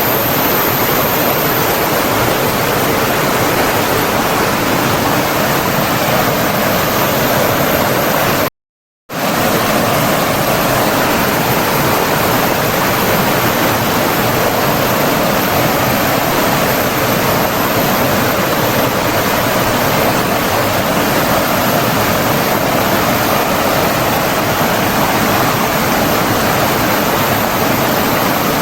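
Steady rush of flowing water, a stream or waterfall, spread evenly from low to high pitch. About eight and a half seconds in it cuts out completely for about half a second, then resumes.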